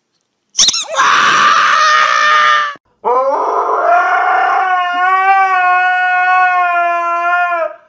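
A husky howling: one long howl starting about three seconds in, rising at first and then holding a steady pitch for several seconds before it stops. About a second in, a shorter, rougher cry comes before it.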